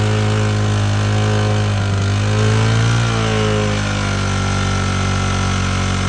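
Honda C90's small single-cylinder four-stroke engine idling steadily after a test start in the cold, with a slight rise in revs about two to three seconds in before it settles back.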